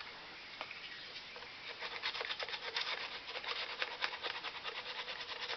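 Sandpaper being rubbed by hand over a fiberglass cowl in rapid back-and-forth strokes, removing excess fiberglass. The strokes are light at first and become quicker and louder about two seconds in.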